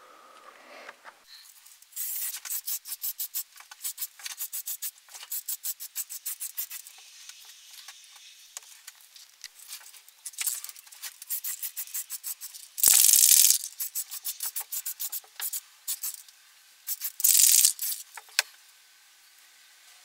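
A spray can of heat-resistant oven paint being shaken, its mixing ball rattling in quick clicks for several seconds, then two hissing sprays of about a second each, the first about two-thirds in and the second near the end.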